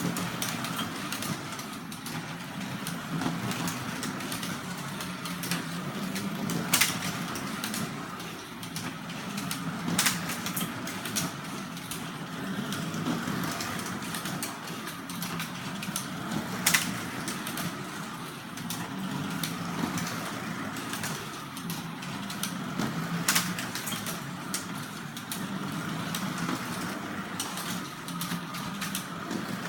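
Carrera slot cars running laps: the small electric motors whine steadily, rising and falling as the cars speed up and slow down. Sharp clicks come every several seconds.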